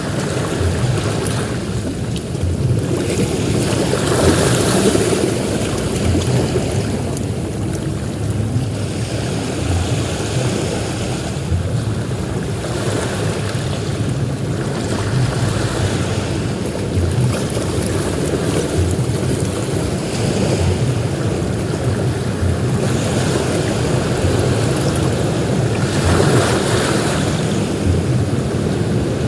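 Ocean surf on a beach: waves break and wash in one after another, swelling and easing every few seconds. Wind rumbles on the microphone underneath.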